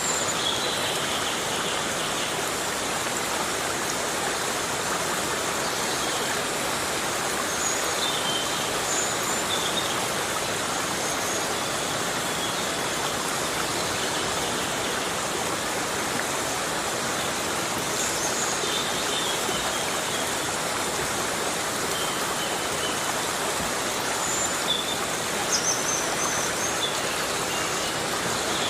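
Heavy rain falling steadily in a forest, a dense even hiss. Faint short high chirps sound now and then.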